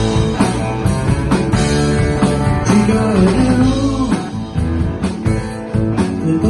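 Rock band playing live: guitar, bass and drum kit, with regular drum hits and a line that bends in pitch about three seconds in.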